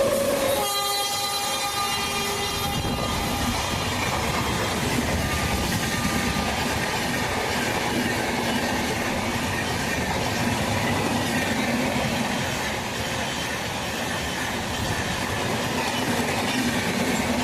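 Express passenger train running through a station at speed. The locomotive's horn sounds for about the first three seconds, then the coaches rush past in a steady roar with wheels clattering over the rail joints.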